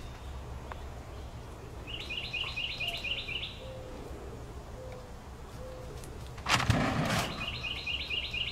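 A songbird singing a rapid run of high, repeated chirps, about five a second, twice. A short rustling burst about six and a half seconds in is the loudest sound.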